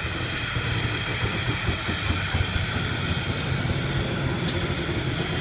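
2-8-0 steam locomotive standing with a steady hiss of steam over a low rumble, with one brief clank about four and a half seconds in.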